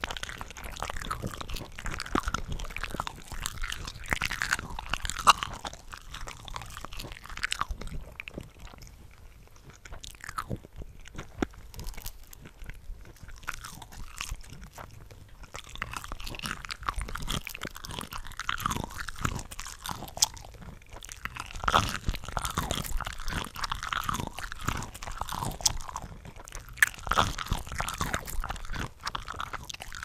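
Close-miked biting and chewing of cooked shrimp from a shrimp cocktail ring, several eating tracks layered over each other into a dense run of crisp, wet bites and chews. There is a quieter stretch in the middle before the bites and chews pick up again.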